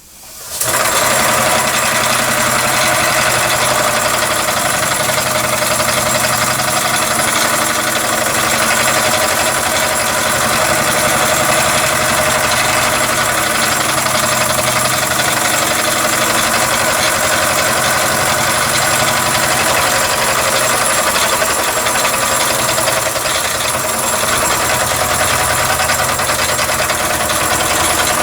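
Model V8 engine built from Mamod steam-engine parts running steadily on compressed air rather than steam, starting abruptly just after the beginning.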